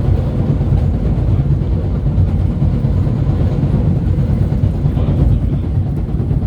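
PATH train running at speed, heard from inside the car: a steady low rumble of wheels on rail with motor and track noise.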